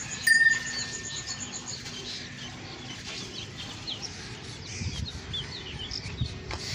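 Many small birds chirping over and over. About a third of a second in comes a sharp, loud clink, the loudest sound, which rings on for about a second, and a few dull low thuds come near the end.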